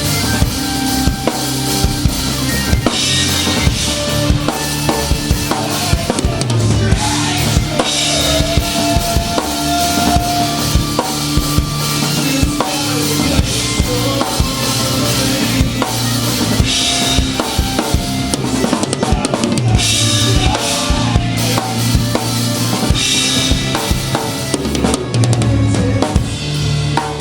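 Live band playing, with the drum kit loud and close: kick drum, snare hits and repeated cymbal crashes over sustained bass and guitar notes.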